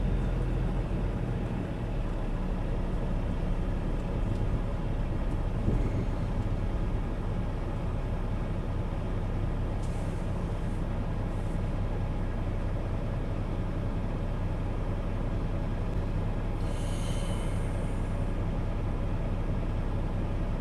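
Semi truck's diesel engine running steadily at low speed, heard from inside the cab, with a brief hiss about three quarters of the way through.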